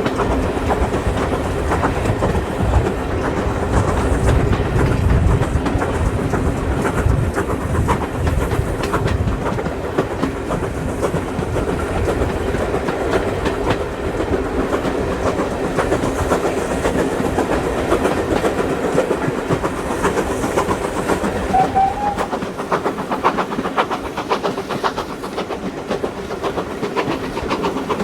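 Steam-hauled heritage passenger train running along the track: a steady rumble with wheels clicking over rail joints. The low rumble eases about two-thirds of the way through, and there is a brief high squeal around the same point.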